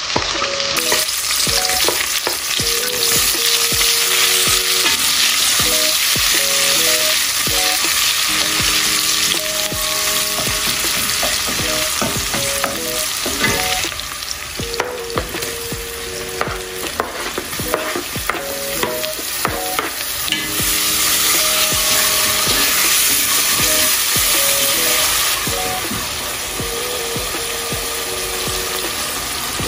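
Sliced onions sizzling as they fry in a pot, with repeated scraping strokes of a wooden spoon stirring them. Near the end the sizzle eases as chopped tomatoes go in.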